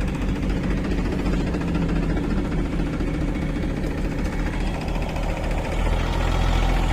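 Heavy diesel machinery engine running steadily, growing slightly louder near the end.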